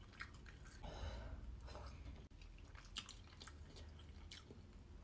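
Faint chewing of ramen noodles, with a few soft clicks scattered through.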